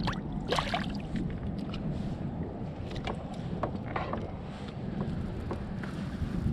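Sounds aboard a kayak on the water: a steady low rumble, with scattered light clicks and knocks through it.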